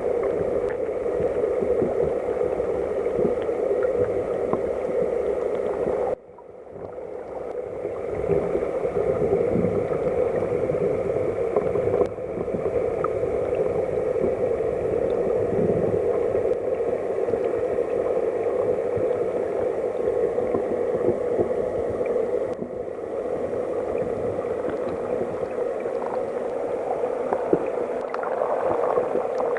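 Mountain headwater stream water rushing and gurgling, heard muffled, with little high-pitched hiss. The sound drops out abruptly about six seconds in and swells back over the next two seconds, and it shifts suddenly again around twelve and twenty-three seconds in.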